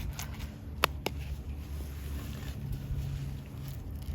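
Two sharp knocks about a quarter of a second apart, about a second in, from the paint container and mixture being handled, over a low steady rumble.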